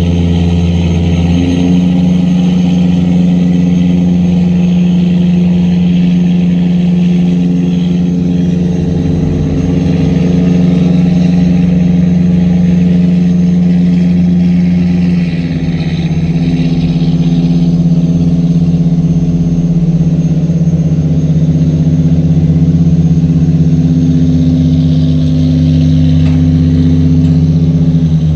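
Tugboat's diesel engine running loud and steady under tow, a deep even hum whose pitch shifts slightly a few times.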